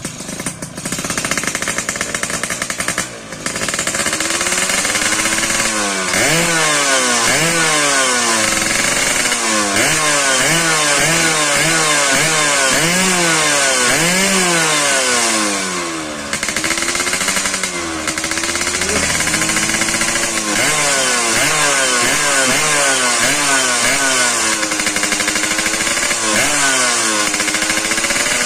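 Yamaha F1ZR two-stroke single-cylinder engine with an FJP racing expansion-chamber exhaust, revved over and over. The pitch climbs and drops in quick blips, with a few longer rising sweeps. It starts abruptly at the outset and is loud throughout.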